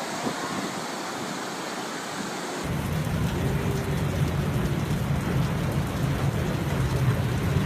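Steady hiss of rain. About three seconds in it changes abruptly to a louder downpour with a steady low rumble underneath, like a thunderstorm.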